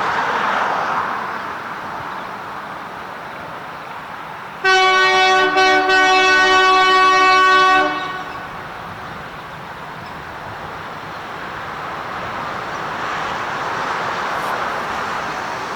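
Diesel locomotive air horn sounding several notes at once, blown about five seconds in for about three seconds with two very brief breaks near its start, over a steady rushing noise.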